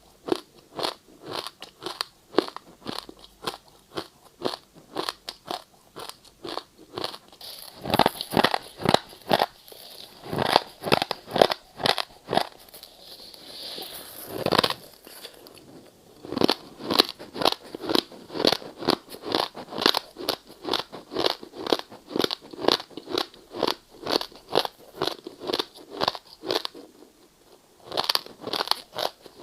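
Ice being bitten and chewed close to the microphone: a steady run of crisp crunches, about two to three a second. The bites are louder from about a quarter to halfway through, and there is a short pause near the end.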